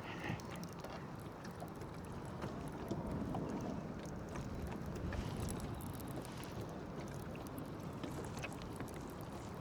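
Steady low rumble of wind and water around a small fishing boat, with faint scattered clicks.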